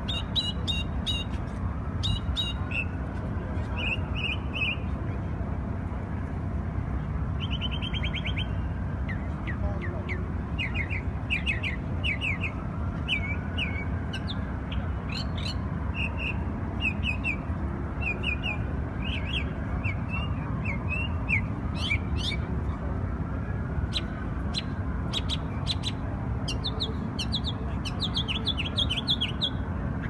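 A songbird singing: short chirping phrases repeated every second or two, with a brief trill about eight seconds in. A steady low city rumble runs underneath.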